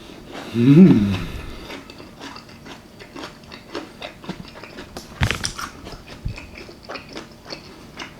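A person chewing and biting food close to the microphone, with many small wet mouth clicks. A brief hum of the voice comes about a second in, and there is a sharper click a little after five seconds.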